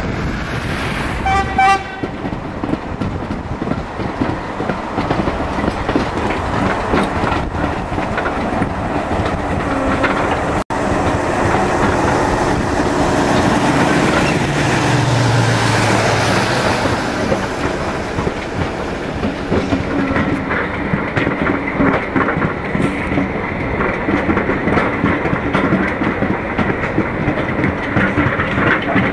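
A diesel locomotive's horn sounds briefly about a second in. Then a moving diesel-hauled train is heard from a carriage window, its wheels clattering steadily over rail joints.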